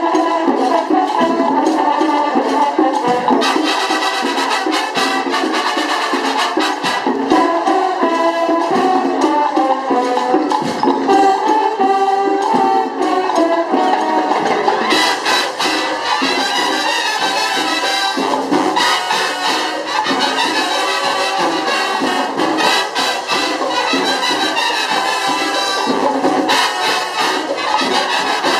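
Marching band playing: a brass melody of trumpets and trombones over light percussion, with the percussion strokes growing busier and brighter about fifteen seconds in.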